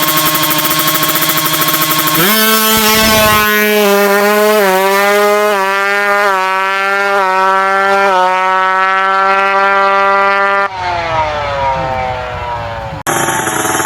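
Tuned drag-race motorcycle engine being free-revved for setting. It runs fast, jumps to high revs about two seconds in and is held there with small wavers for about eight seconds, then is let go and the revs fall away. Near the end it cuts suddenly to another loud engine sound.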